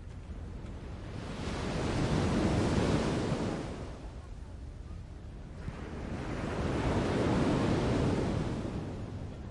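Rushing noise that swells and fades twice, each swell building and dying away over about three seconds.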